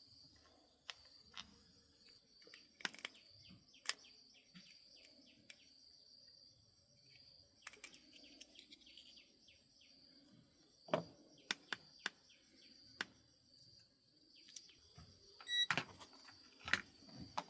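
Scattered light clicks and taps, with a few louder knocks near the end, over a faint steady high-pitched drone.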